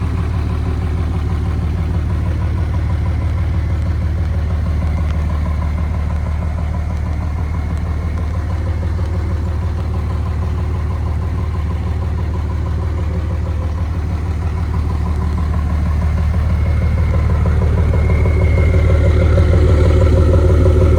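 Cummins 5.9 turbo diesel inline-six idling steadily, growing louder over the last few seconds.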